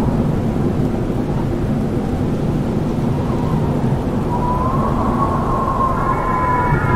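Howling wind: a steady, loud low rumble, with a wavering whistling howl that rises in about four seconds in and grows fuller near the end.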